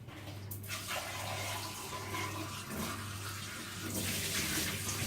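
Tap running water into a sink, turned on about half a second in, a steady rush of water.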